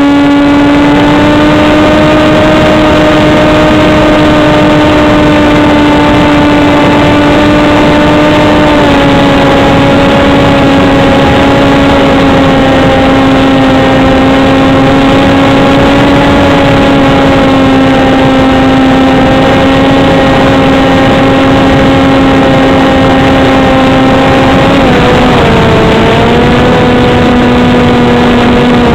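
Motor and propeller of an RC foam flying wing heard from its onboard camera: a loud, steady drone that drops slightly in pitch about a third of the way in, and near the end dips briefly as the throttle is eased before holding at a slightly lower pitch, with wind rushing over the microphone.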